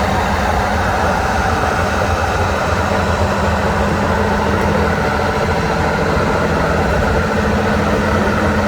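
Heavy off-road trial truck's engine running steadily at low revs, loud and close.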